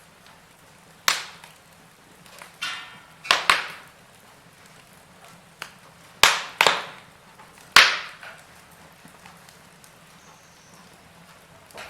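Wood fire crackling in a fireplace: a string of sharp pops and snaps, several close together near the middle, over a faint steady hiss.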